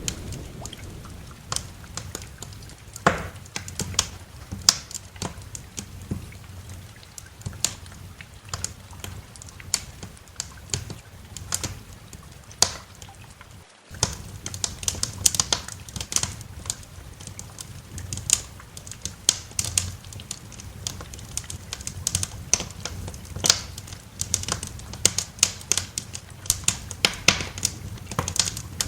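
Wood fire in a fireplace crackling, with irregular sharp pops and snaps over a low, steady rumble. The sound drops out for a split second about halfway through.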